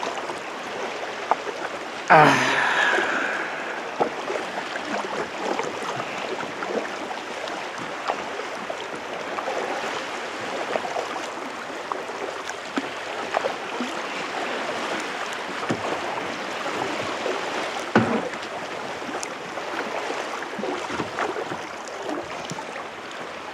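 Kayak paddling: the paddle dipping and splashing and water lapping against the hull, heard as steady watery noise with scattered small splashes and knocks. A louder rushing splash comes about two seconds in and lasts a couple of seconds.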